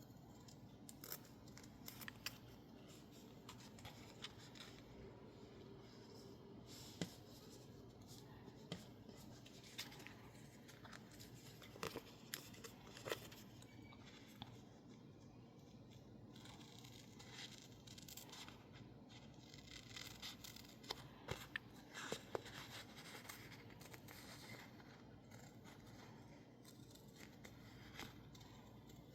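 Scissors snipping through sticker label paper in short, irregular cuts, with a scatter of quiet clicks and a few sharper snips.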